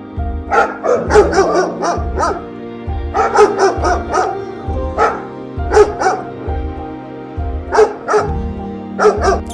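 A dog barking repeatedly in short barks and clusters of barks, over background music with a steady beat.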